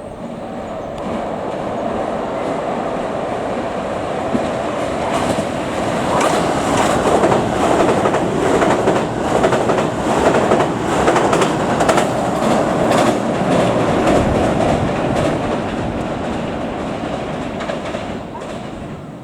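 281 series 'Haruka' limited express electric train passing through a station at speed without stopping. Its wheels clack rapidly over the rail joints as it goes by; the noise builds up, is loudest in the middle, and fades near the end.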